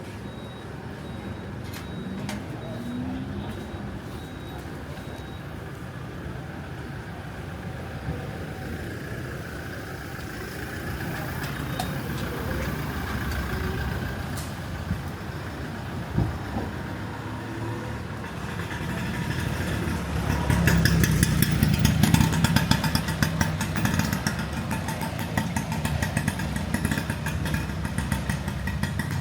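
Busy street traffic noise with motorcycle engines. About nineteen seconds in, an engine comes close and grows loud, then stays near to the end.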